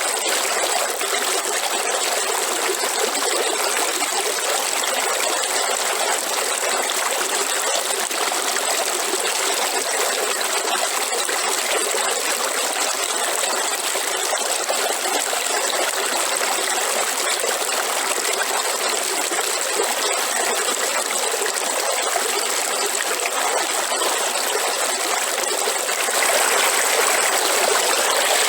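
Waterfall: water falling and rushing in a steady, even noise, swelling slightly louder near the end.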